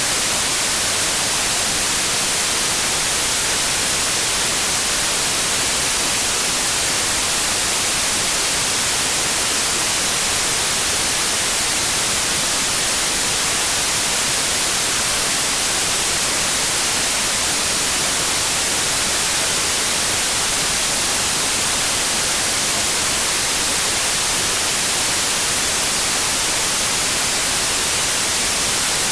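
Electronic white noise: a steady, even hiss with no changes, brightest in the high end.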